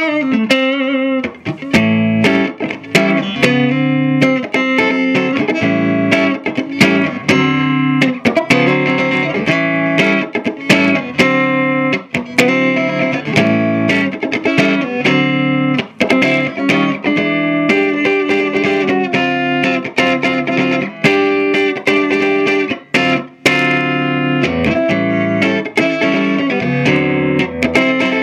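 Electric guitar on its neck pickup, played through the Earthquake Engineering Atlas15, a 15-watt cathode-biased EL84 valve amp: a continuous run of picked notes and chords with a light, playful tone.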